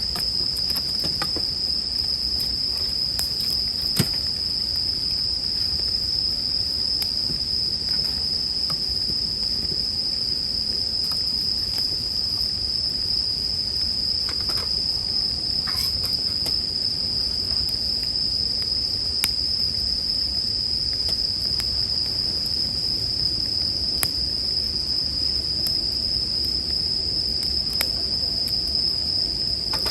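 Japanese bell crickets (suzumushi) singing in a steady, unbroken high-pitched chorus, with occasional sharp crackles and pops from a wood campfire.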